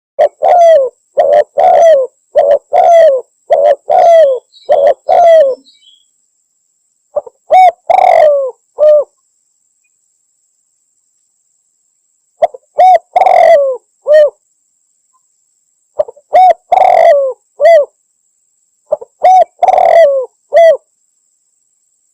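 Spotted dove cooing loudly: a quick run of short coos, then repeated phrases of three or four coos with a longer middle note, every few seconds.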